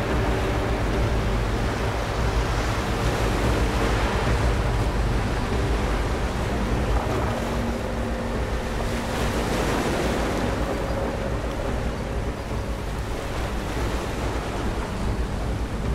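Ocean surf washing and breaking in slow swells, with faint steady low tones beneath.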